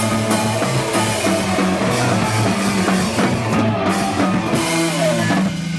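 Live rock band playing, with drum kit and electric guitar, loud and dense until it thins to a held chord near the end.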